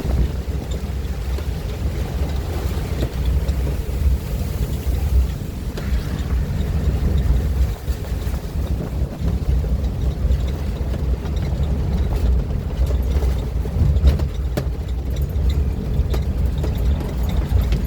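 Strong storm wind buffeting the microphone: a heavy low rumble that rises and falls in gusts, with scattered sharp ticks in the second half.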